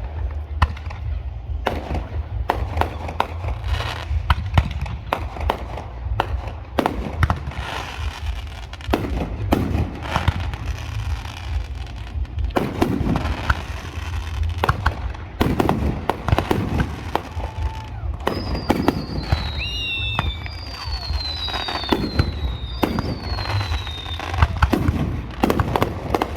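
Fireworks display: a rapid, continuous string of bangs and crackles from aerial shells over a low rumble, with several short high whistles falling in pitch about two-thirds of the way through.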